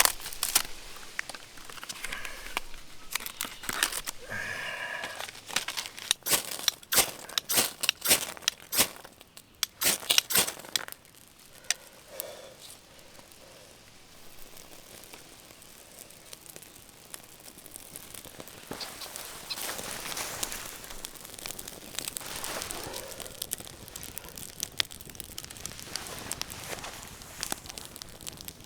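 Crinkling and rustling of gear being handled, with many sharp clicks and knocks for about the first ten seconds, then softer rustling.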